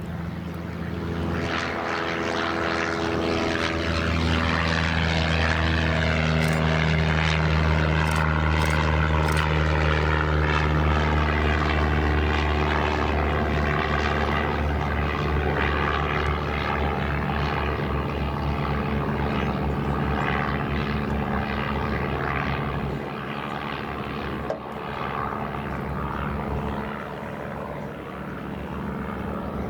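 Piston engine and propeller of a light aircraft running with a steady low drone. It grows louder over the first few seconds, and its tone shifts slowly as the aircraft moves. There is a single short click near the end.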